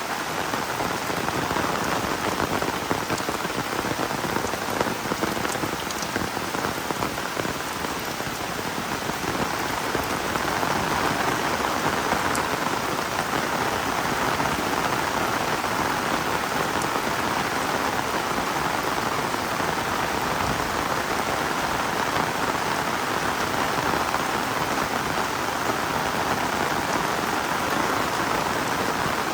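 Heavy rain falling steadily, growing a little louder about ten seconds in.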